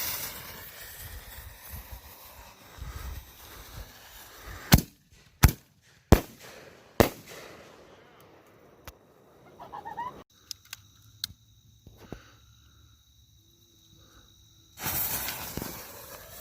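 Consumer fireworks going off: a loud rushing hiss that fades, then four sharp bangs under a second apart, a few smaller cracks, and another rushing hiss near the end.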